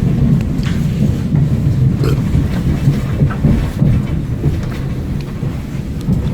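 Montreux Oberland Bernois GoldenPass panoramic train running along the metre-gauge electric line: a steady low rumble with a few sharp clicks.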